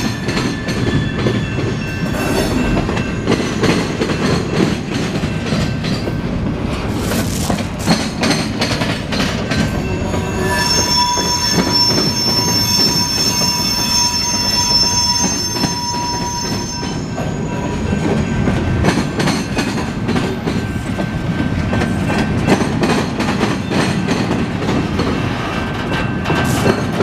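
Double-stack intermodal freight train rolling past close by, its wheels rumbling and clattering on the rails. From about ten seconds in, a high-pitched wheel squeal lasts several seconds as the well cars take the curve.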